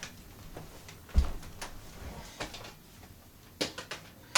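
A few clicks and knocks of plastic vacuum cleaners being handled, with a low thump about a second in and a quick run of clicks near the end; no motor is running.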